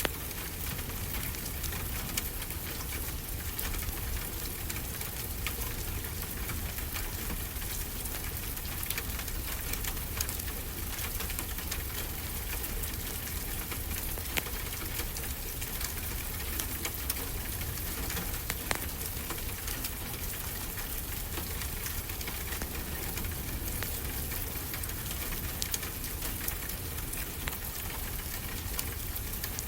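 Wood fire crackling, with scattered sharp pops over a steady hiss, layered over a constant low rumble of ocean waves.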